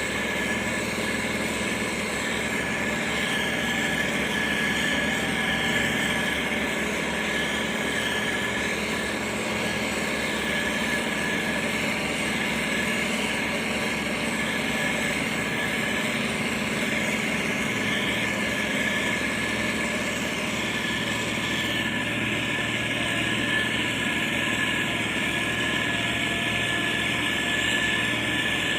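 Diesel engine of heavy road-building machinery running steadily, with a steady high whine running through it.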